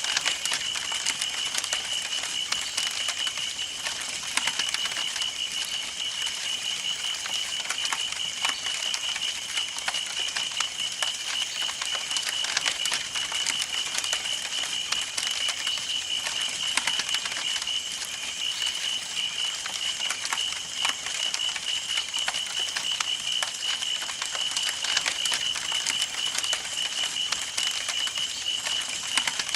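Campfire burning, with dense crackling and popping of the wood, over a steady high, pulsing trill.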